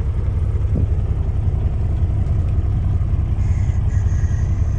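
Semi truck's diesel engine idling with a steady low rumble. A faint high tone joins in about three and a half seconds in.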